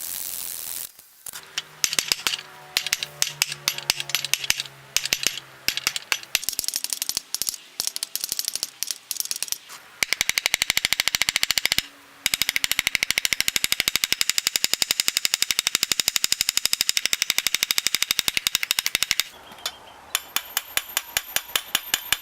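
Ball peen hammer striking hot rebar steel to dish a spoon bowl into a wet softwood block. Irregular strikes at first, then a fast, even run of blows for about nine seconds, then a few more strikes near the end.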